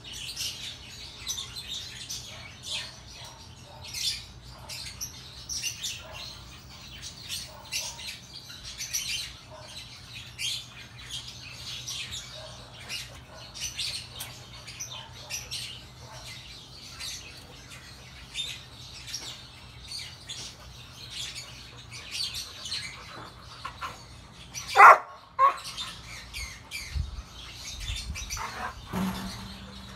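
Small birds chirping over and over, short high calls. About 25 seconds in comes one louder, sharp cry.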